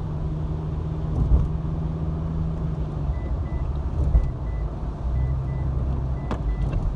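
Car engine running at low speed in traffic, heard from inside the car. From about three seconds in, a high electronic beep repeats in pairs, with a few short knocks along the way.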